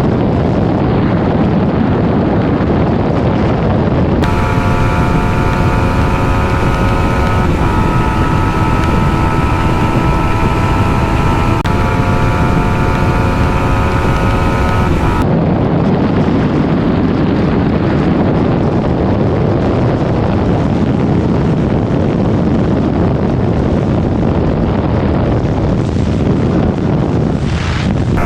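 Heavy wind noise on the microphone over a Yamaha 155cc single-cylinder motorcycle engine held at high, steady revs at top speed. For about eleven seconds in the middle the engine's whine comes through clearly as a steady pitch that steps slightly twice.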